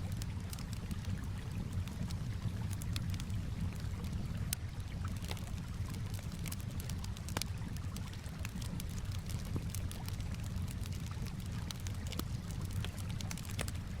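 Campfire crackling, with frequent irregular sharp pops and snaps over a steady low rumble, mixed with gently moving water.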